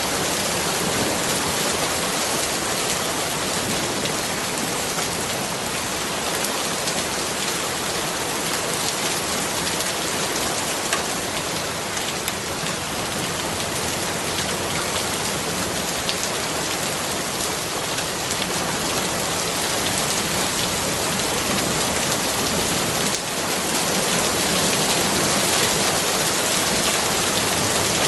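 Steady rain falling: a dense, even hiss of rain with scattered sharper drop hits, growing slightly louder near the end.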